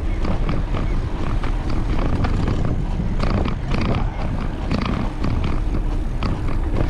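Wind buffeting the microphone of a moving bicycle, a loud, constantly fluttering rumble, with tyre noise and small clicks and rattles from the bike.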